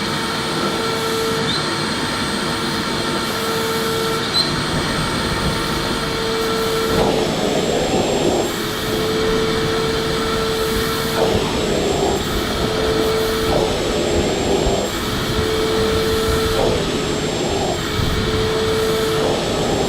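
Electric vacuum cleaner running continuously, its motor holding a steady whine over the rush of air. From about seven seconds in, a rougher rushing sound swells and fades every second or two.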